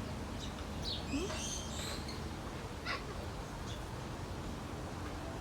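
Parrots giving short, high chirps and squawks, a few scattered single calls and a brief cluster about a second in, over a steady low rumble.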